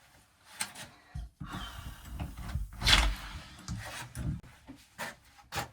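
Scattered knocks, clicks and rustles of things being handled and moved, with a louder knock about three seconds in.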